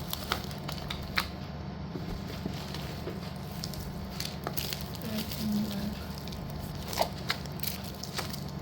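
Slate pencils and slate pieces being handled and unpacked: scattered sharp clicks and taps with light crackling, over a steady low hum.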